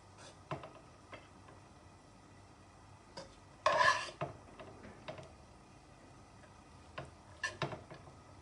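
Metal utensil scraping and knocking against a cooking pot. There are a few light clicks, one longer scrape about four seconds in, and a couple of knocks near the end.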